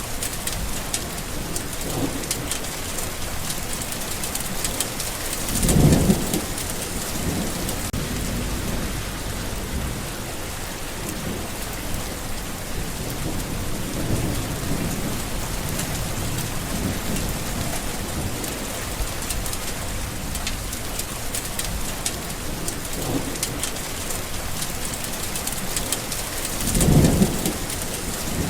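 Steady rain falling, with fine drop patter over a continuous hiss. Two brief low rumbles of thunder rise out of it, one about six seconds in and one near the end.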